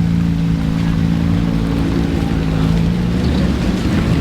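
Vehicle engine running at a steady speed, a low hum over a rumble. The steady hum breaks up about three seconds in, leaving a rougher rumble.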